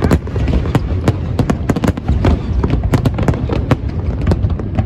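Fireworks display: a rapid, dense string of sharp bangs and crackles over a continuous low rumble of shells bursting.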